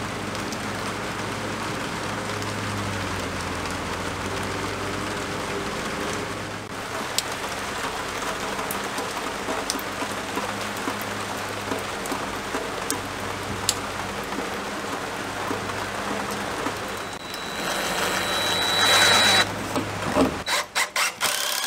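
Steady rain falling, with scattered drops tapping on wet wooden deck boards. Near the end a cordless drill runs briefly, driving a screw into wood framing.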